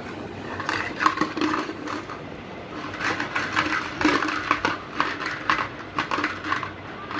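Irregular clattering and tapping of small hard objects being knocked and handled, many short knocks, busiest about a second in and again through the middle.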